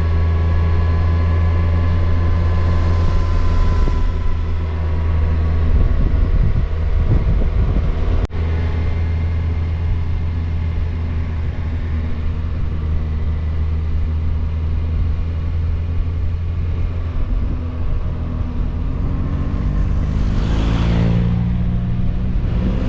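Kawasaki Versys motorcycle running at steady road speed; its engine note rises near the end as it speeds up.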